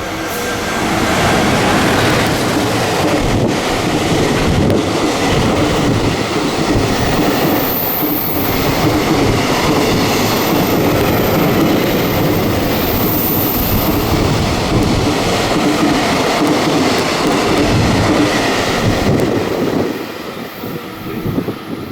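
Train passing through a station without stopping: a loud rush of wheels on rail and air that builds over the first two seconds, holds steady, and falls away shortly before the end. A thin high squeal sounds in the middle of the pass.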